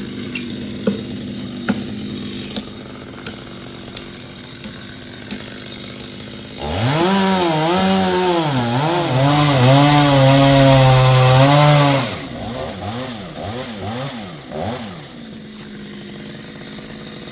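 Two-stroke chainsaw running at a low, steady speed, then revved up about a third of the way in and held loud at high revs for about five seconds, its pitch rising and falling. After that it drops back with a few quick blips of the throttle and settles to a steady low run.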